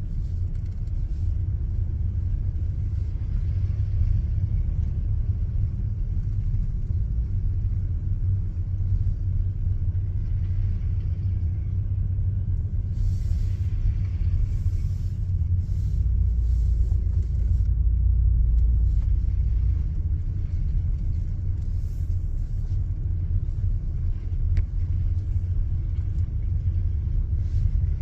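Car driving: a steady low rumble of engine and road, swelling a little past the middle, with a few brief hisses.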